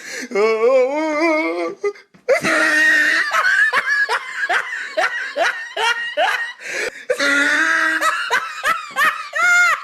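Men laughing hard in bursts of rapid, repeated laughs, with a short break about two seconds in.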